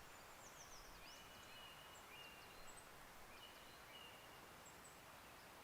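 Faint birdsong over a near-silent background: scattered short, high chirps that sweep downward and a few thin held whistles.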